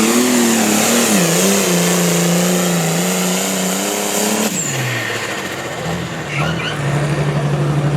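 Engine of a pulling truck or tractor at full throttle down the track, its pitch wavering under load. About halfway through it is let off abruptly and the pitch drops, ending the run. Near the end it settles into a steadier, lower running note.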